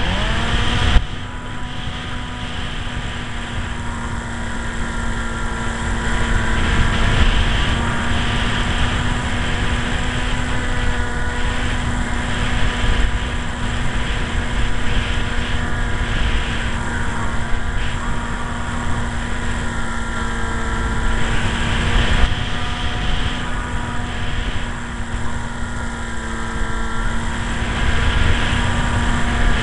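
RC model airplane's motor and propeller running at a steady pitch, with heavy wind rumbling on the microphone. A sharp knock about a second in.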